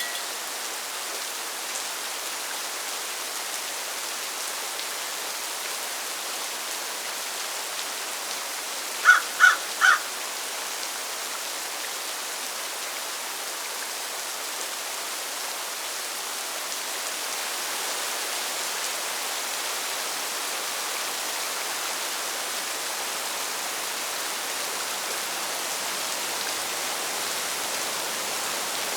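Steady rain falling as a continuous hiss. About nine seconds in, three short pitched animal calls follow one another quickly, rising above the rain.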